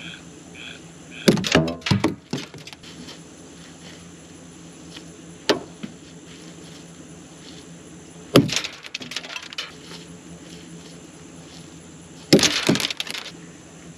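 Ears of corn thrown one at a time, striking a combine's metal corn header with a clatter and bouncing. There are four impacts a few seconds apart, one of them a single sharp knock. Faint crickets chirp in the background.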